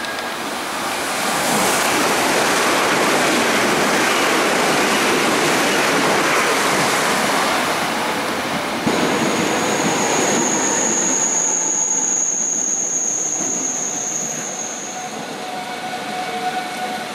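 ITX-Saemaeul electric train passing close along the platform: a rush of wheels on rail and passing cars that swells about a second in. From about nine seconds in, a high steady squeal rides over it for several seconds, and the rush fades near the end.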